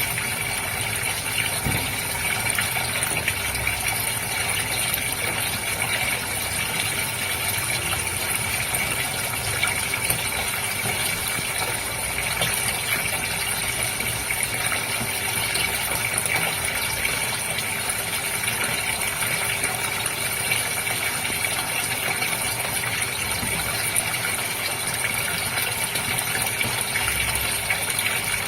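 Water running and splashing steadily, with a faint constant hum underneath.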